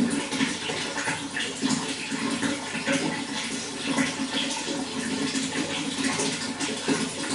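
Running water flowing steadily, with a constant rush full of small splashes and gurgles.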